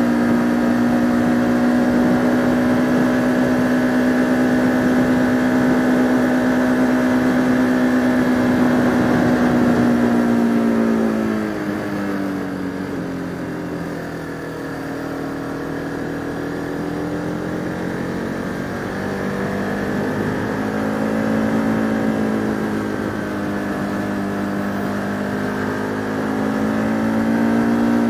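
Motorcycle engine, likely the rider's Bajaj Pulsar RS200 single-cylinder, pulling hard on a climb at steady high revs. About eleven seconds in the revs drop, then rise and fall again, climbing back up near the end.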